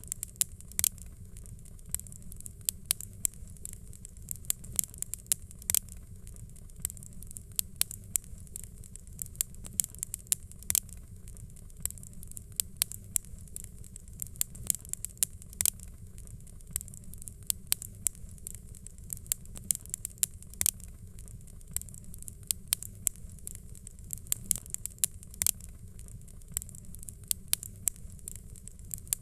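Fireplace fire crackling: frequent irregular pops and snaps over a steady low rumble of the flames.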